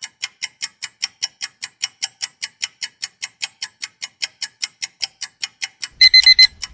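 Clock-ticking countdown sound effect, even ticks about four a second, timing the guessing pause. Near the end an alarm-clock ring breaks in, signalling that time is up.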